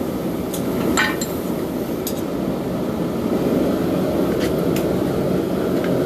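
A few sharp hammer strikes on steel at an anvil, the loudest about a second in and lighter ones after, over a steady low rushing noise.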